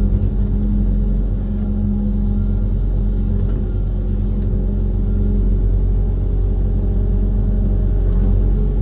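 Diesel engine of a Kobelco SK130 amphibious excavator running steadily with a low rumble.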